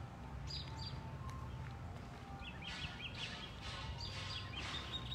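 Small birds chirping in short high notes, a couple about half a second in and a quick run of them from halfway on, over a steady low background hum.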